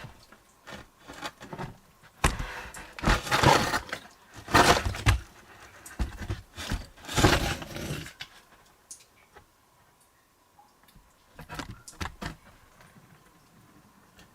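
A wooden 2x4 carrying a camera scraping and knocking against rock and rubble as it is worked into the entrance. There are three loud scraping stretches near the middle, with scattered clicks and knocks around them.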